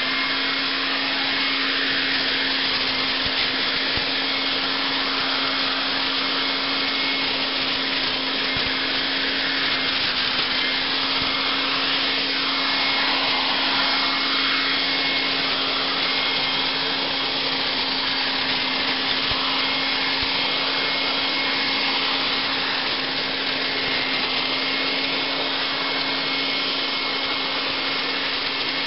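Electric Toro Super Blower/Vac running as a leaf vacuum: a steady whine over rushing air as it sucks up leaves and shreds them into mulch in the bag.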